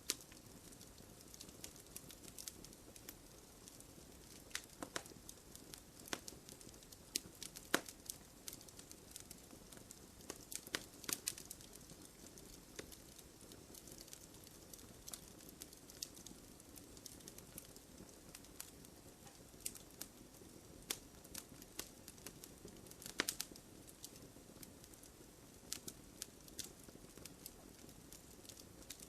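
Wood campfire burning, with a steady low rush and frequent irregular sharp crackles and pops, a few louder snaps scattered through.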